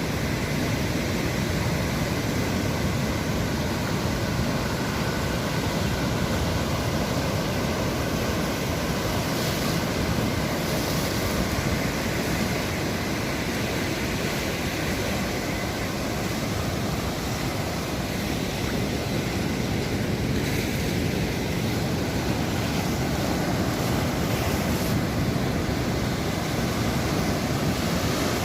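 Sea surf, waves washing in as a steady, unbroken rush.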